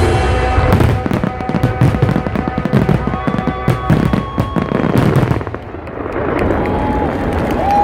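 Rapid barrage of firework bursts over loud music, the bangs dying away about five and a half seconds in and leaving only the music.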